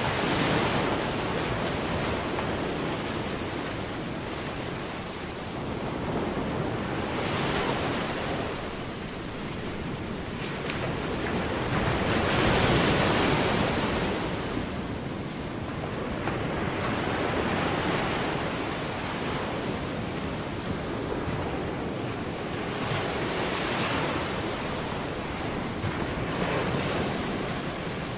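Ocean waves washing onto a shore, a steady rush that swells and ebbs every few seconds, loudest near the middle.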